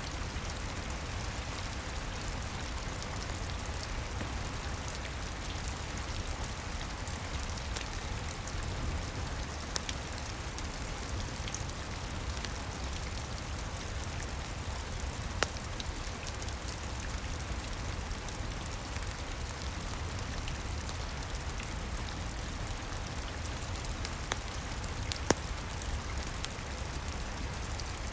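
Steady rain on the roof, heard from indoors, over a low steady rumble, with a few sharp crackling pops from a wood fire in a fireplace, the loudest near the end.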